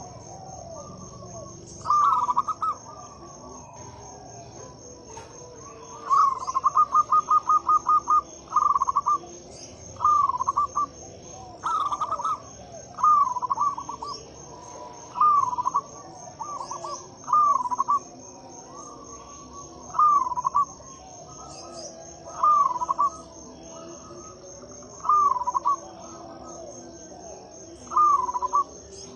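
Zebra dove (perkutut) cooing: short rolled phrases repeated about every two seconds, with one longer run of rapid staccato notes about six seconds in. A steady high buzz sits behind it.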